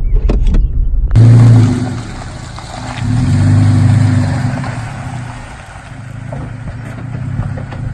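A motor vehicle's engine running, swelling louder about a second in and again around three to four seconds before easing off.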